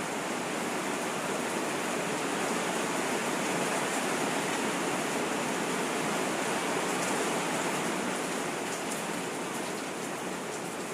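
Rain falling steadily, a dense even hiss, with a few sharper drip ticks near the end.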